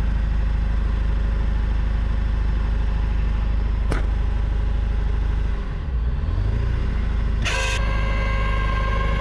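Tow truck's engine running steadily while the winch pulls a stuck vehicle back up a snowy hill. There is a single click about 4 seconds in, and the engine note dips and climbs again around 6 seconds in. A steady ringing tone comes in near the end.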